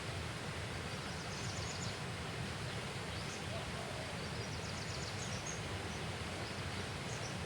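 Outdoor riverside ambience: a steady background hiss and rumble with small birds calling in short runs of quick high chirps, four or five times.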